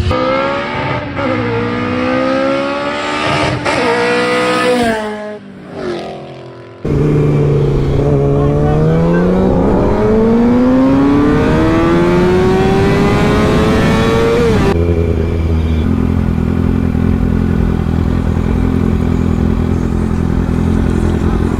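Motorcycle engine revving, its pitch climbing and dropping through several gear changes; after an abrupt cut it pulls in one long climb lasting about eight seconds, then switches suddenly to a steady, unchanging engine note.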